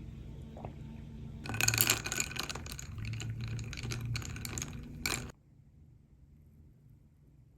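Kitchen handling sounds: a run of small, irregular clicks, clinks and rattles lasting about four seconds, which stops abruptly; after that the sound drops to a low, steady hush.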